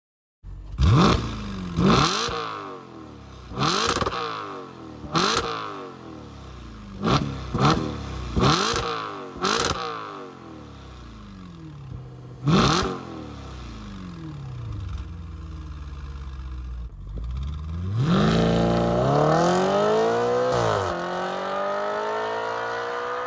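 Audi RS5 flap exhaust: about nine quick, loud throttle blips with the revs snapping up and falling back, then a steady idle. Near the end, a longer pull where the revs climb, dip briefly about two-thirds of the way through and climb again, then cut off suddenly.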